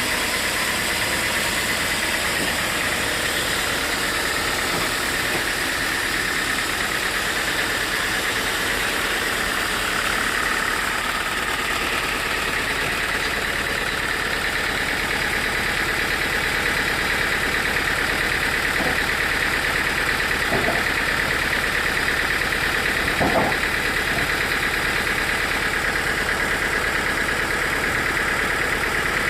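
Sawmill machinery running steadily, an engine-like drone with a steady high whine over it. A few short knocks come in the second half, the loudest about three-quarters of the way through.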